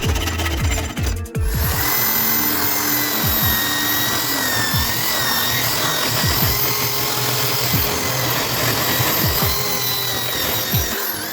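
Electric power tool running at a steady speed while shaping a knife handle, its motor whine holding steady, starting about a second in after a short break.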